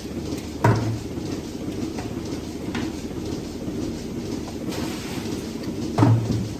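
Steady low mechanical rumble with two heavy clunks, one about a second in and one near the end.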